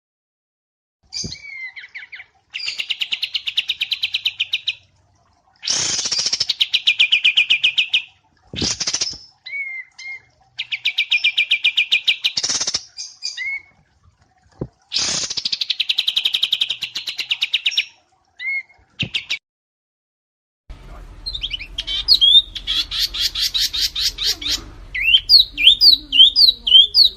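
Wambi mini and kapas tembak songbird song from a song-training recording: rapid buzzing trills in bursts of one to three seconds, broken by short pauses and single chirps. About three quarters of the way in, a hissier recording takes over, with a fast run of rising and falling whistled notes.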